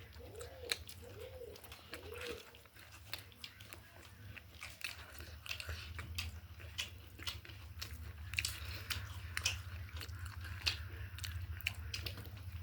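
Close-up eating sounds: chewing with irregular sharp crunches and clicks as chicken is bitten and chewed.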